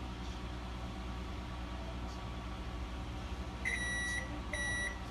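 Two electronic beeps, a short pause between them, over a steady low hum.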